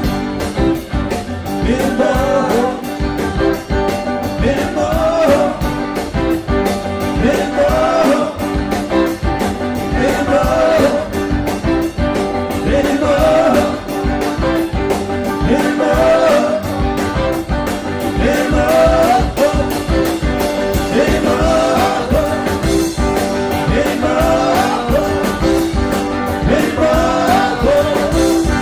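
Live rock band playing an instrumental passage: electric lead guitar bending notes over bass, drums with a steady cymbal beat, and the rest of the band.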